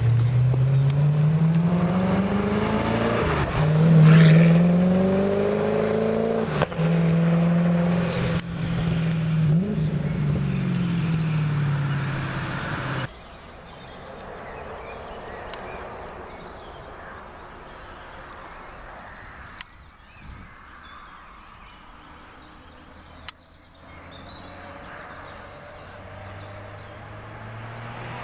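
Koenigsegg One:1's twin-turbo V8 pulling away under acceleration: the engine note climbs, drops at a gear change about three and a half seconds in, then holds high and fades as the car leaves. After an abrupt cut about 13 seconds in, a car engine is heard faintly at a distance, growing louder near the end.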